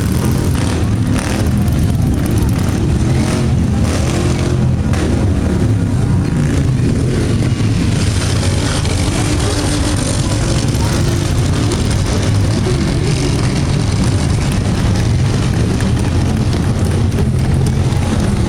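Car engines running, a steady low rumble with no sharp revs.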